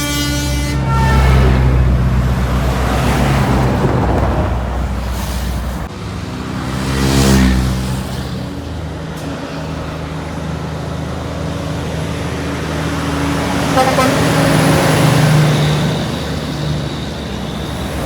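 Heavy trucks and buses passing on a highway, their engines rising and fading as each goes by, with the tail of an air horn cutting off just under a second in. One loud pass peaks about seven seconds in and another swells near the end.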